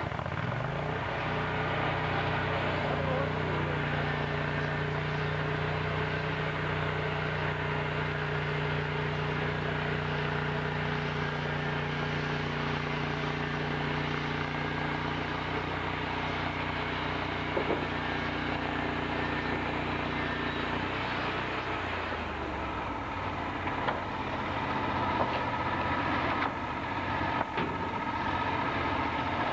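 Sawmill engine running steadily, its pitch climbing in the first second; about two-thirds through the sound changes, with a few short knocks near the end.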